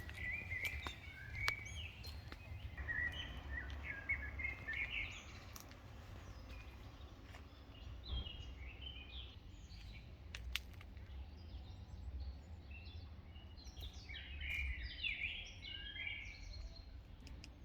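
Small songbirds singing in quick, chirping phrases, one bout in the first few seconds and another near the end, over a steady low rumble of outdoor noise.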